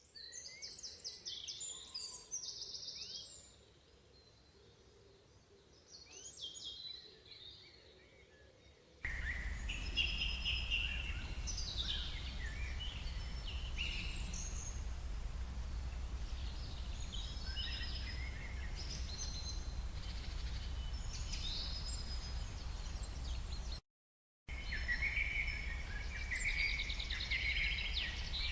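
Small birds chirping and twittering over background noise. A steady low rumble comes in abruptly about nine seconds in, and the sound cuts out for a moment near the end.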